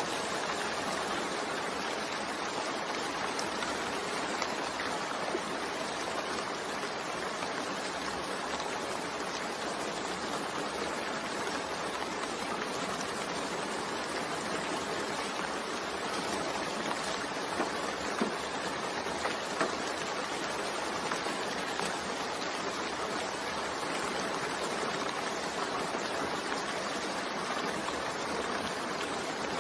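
Steady rain falling: an even hiss of water, with a few faint drop ticks a little past the middle.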